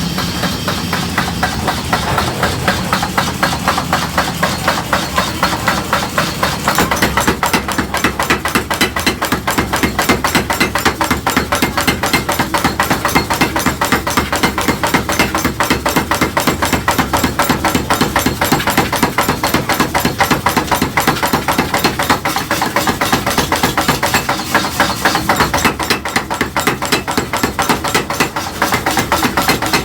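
Rapid, regular hammer blows, several a second, typical of forging in a blacksmith's shop, over a steady background din.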